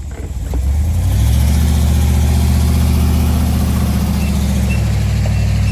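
Tow vehicle's engine under load, pulling the boat trailer up the launch ramp. It revs up about a second in, holds a steady note, then drops off at the end.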